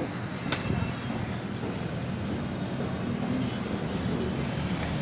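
A vehicle engine running steadily, with a sharp click about half a second in.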